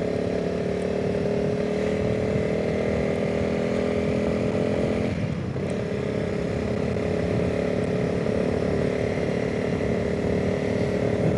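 Honda CRF300 Rally's single-cylinder engine running steadily as the motorcycle rides along, with wind noise. The engine note breaks briefly about halfway through, then carries on.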